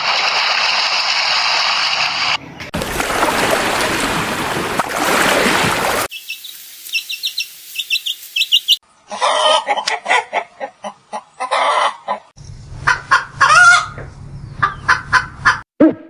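Short animal recordings played one after another: about six seconds of steady hiss-like noise, then a quick run of high chirps, then chickens clucking and calling in short, loud bursts over a low hum through the second half.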